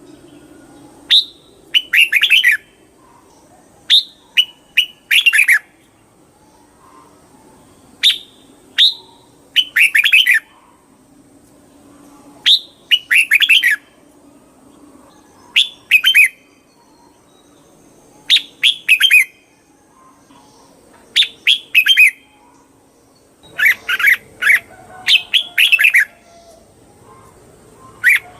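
Red-whiskered bulbul singing: short bright whistled phrases repeated every two to three seconds, with a quicker run of phrases near the end.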